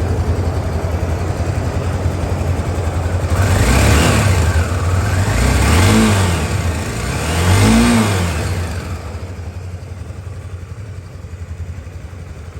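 2003 Honda CBX 250 Twister's single-cylinder four-stroke engine idling with a lumpy low pulse, blipped up three times, about two seconds apart, each rev rising and falling back before it settles to idle.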